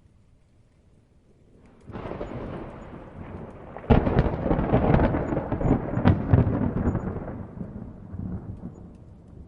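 A thunderclap in a thunderstorm: a rumble builds about two seconds in, breaks into a loud crackling peak near the middle, then rolls away and fades.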